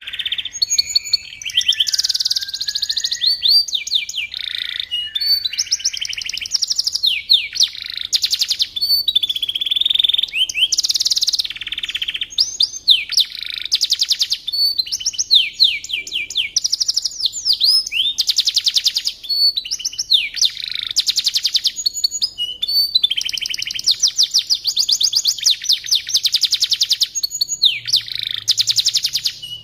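Domestic canary singing a long, continuous song of rapid trills and quick repeated notes, broken by rising and falling whistled sweeps.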